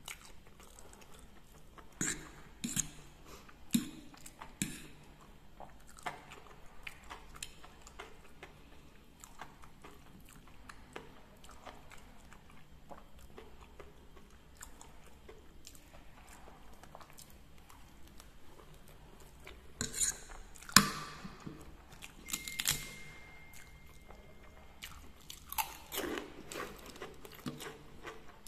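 Close-up chewing of fried instant noodles, with scattered sharp clicks and crunches as fork and spoon work the plate. The loudest click comes about two-thirds of the way through.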